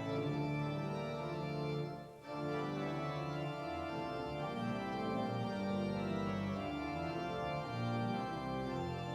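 Church organ playing sustained chords, with a brief break in the music about two seconds in.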